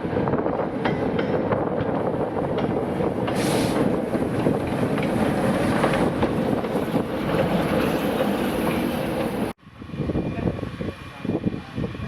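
Steam-hauled heritage train running on the line: a steady rail rumble with frequent wheel clicks and a brief hiss of steam a few seconds in. Near the end the sound breaks off abruptly and gives way to a quieter, uneven clatter of knocks.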